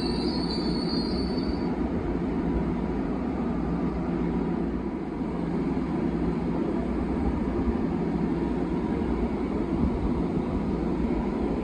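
Long Island Rail Road M7 electric train on the adjacent track, giving a steady low rumble and hum. A high squeal fades out in the first two seconds.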